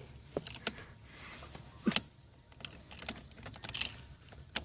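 Irregular light clicks and taps, about a dozen, the loudest about two seconds in: handling at the truck's ignition while the key switch is turned on, without starting the engine.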